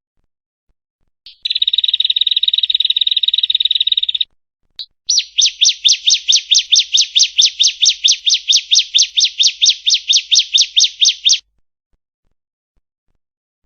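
Female ciblek (bar-winged prinia) singing: a fast, buzzy trill lasting about three seconds, then after a short pause a run of some thirty sharp, evenly repeated notes at about five a second.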